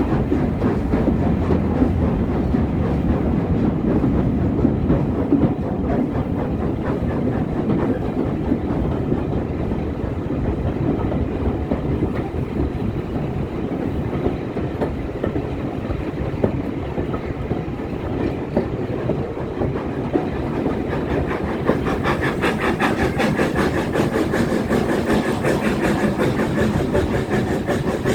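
Steam-hauled passenger train running on the rails, with a steady rumble and the clickety-clack of the carriage wheels. The sound grows brighter and more rattling about two-thirds of the way through.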